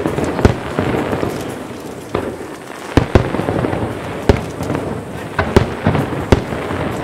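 Fireworks display: aerial shells bursting in quick succession, about ten sharp booms at irregular intervals over continuous crackling.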